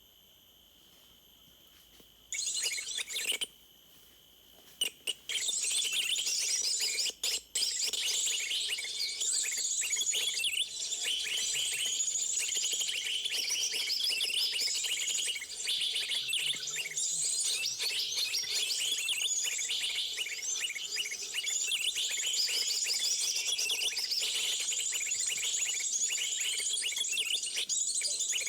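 A faint, steady insect trill, then suddenly a loud, dense chorus of rapid high-pitched chirping from many small birds, broken by a couple of short gaps a few seconds in.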